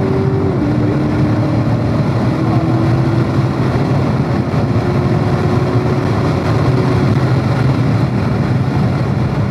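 C7 Corvette Stingray's 6.2-litre LT1 V8 at full throttle, with an upshift from fourth to fifth gear about half a second in. The engine note then climbs slowly as the car pulls past 110 mph, and eases off near the end as the revs fall. Heavy wind and road noise run underneath.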